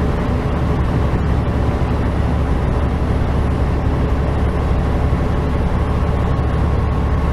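Steady low drone of a truck's engine and road noise heard inside the cab while driving, with a faint steady whine above it.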